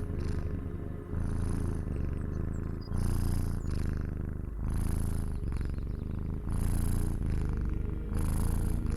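Domestic cat purring close to the microphone: a low, fast-pulsing rumble that swells and dips in regular cycles with each breath in and out, about every two seconds.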